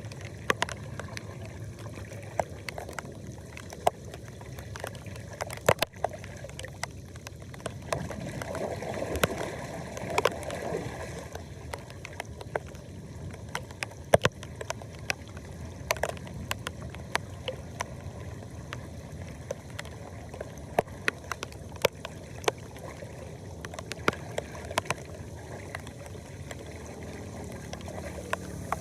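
Floodwater gurgling and running into a storm drain, with many irregular sharp clicks and knocks throughout and a brief louder surge of rushing water about nine seconds in.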